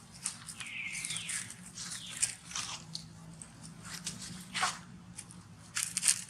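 Young monkey's high squeals, several in a row, each sliding down in pitch, with one longer falling squeal near the end.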